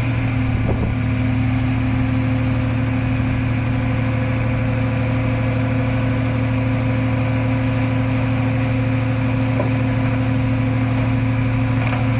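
Diesel engine of heavy earthmoving equipment running at a steady speed, its pitch holding constant throughout.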